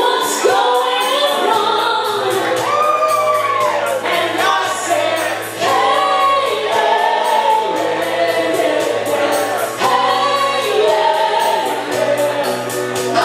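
Live pop-rock music: singing over instrumental accompaniment with a steady beat.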